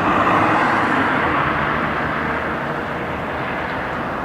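Scania K280UB articulated city bus heard from inside the passenger cabin while under way: its nine-litre five-cylinder diesel runs beneath a steady rush of road and tyre noise. The level eases slightly after about a second and a half.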